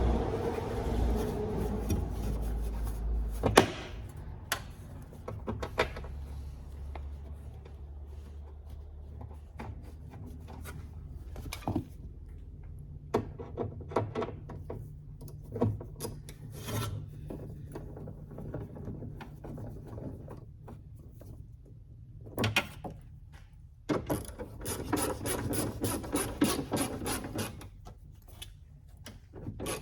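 Hand work on a car door during a window-motor replacement: scraping and rubbing with scattered clicks and knocks. A low rumble stops with a sharp knock about three and a half seconds in, and a run of rapid clicking comes near the end.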